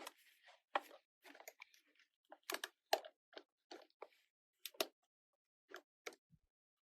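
Play-Doh modelling clay and plastic moulding tools being handled: about a dozen short, irregular squishes, taps and clicks.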